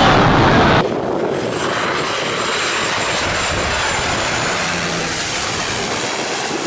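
Low-flying airplane passing close, a loud steady rush of engine noise. About a second in, the sound changes abruptly to a somewhat quieter, steady rush from a different aircraft.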